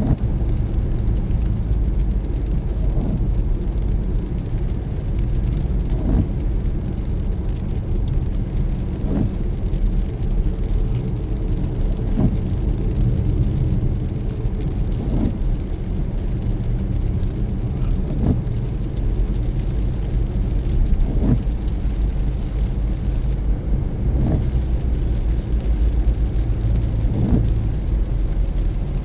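Car interior road and engine noise from a steady drive on wet roads, with a short windshield-wiper swish repeating about every three seconds.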